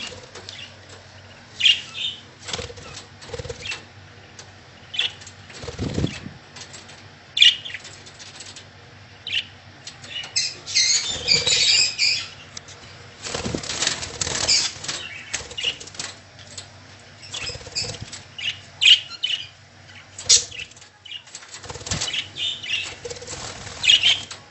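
Rainbow lorikeet chicks stirring in a nest box: irregular fluttering and rustling, with short faint chirps between. The busiest stretch is about halfway through.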